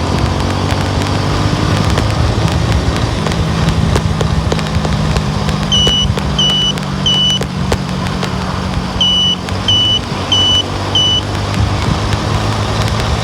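A car driving, heard from inside: steady engine and road drone. Midway come two runs of short high electronic beeps, three and then four, each about half a second apart.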